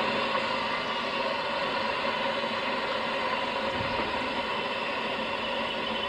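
Isle of Man Steam Railway narrow-gauge steam train, a steady even noise with no distinct beats or clicks.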